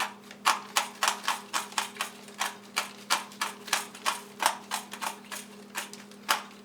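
Hand-cranked pepper grinder grinding black pepper: a steady run of sharp ratcheting clicks, about three to four a second.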